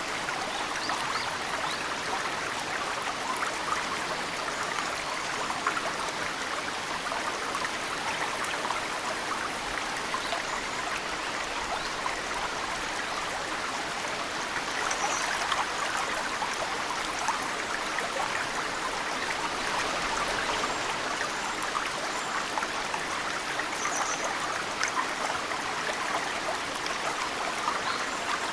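Mountain stream flowing steadily, with many small snowmelt drips splashing into the water. A few short, high chirps from birds come through, once near the middle and twice near the end.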